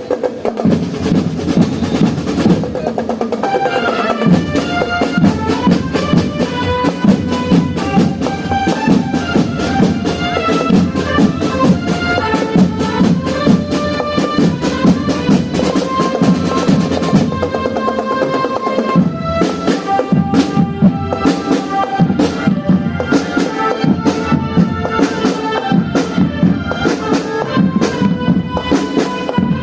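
Marching band playing: rapid, dense drum beating from snare and bass drums, with a stepped melody from the band's melodic instruments coming in about three to four seconds in.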